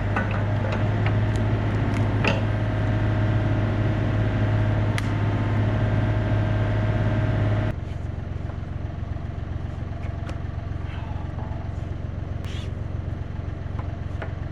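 Diesel engine of a Yanmar B37 mini excavator running with a steady low hum and a few light clicks. It drops sharply to a lower, quieter running level a little over halfway through.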